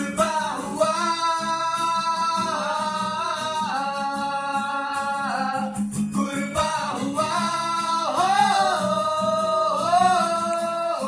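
Band music with a singer holding long, wavering notes without clear words over guitar and steady backing.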